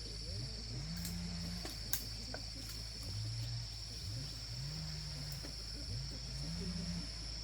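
Night-time insect chorus, crickets chirring as one steady high-pitched buzz. Low rising sounds recur every second or so underneath it, and there is a single sharp click about two seconds in.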